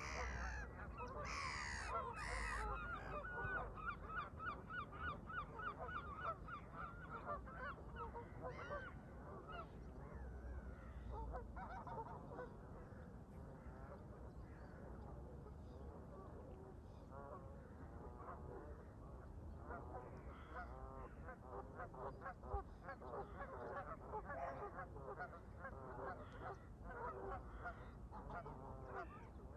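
A flock of Canada geese honking, call after call through the whole stretch, with a few louder, higher calls near the start and thicker calling in the second half.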